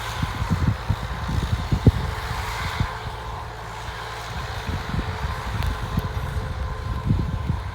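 Massey Ferguson 274S tractor diesel engine running steadily while mowing with a Pöttinger PZ drum mower, a continuous low rumble with uneven low thumps throughout.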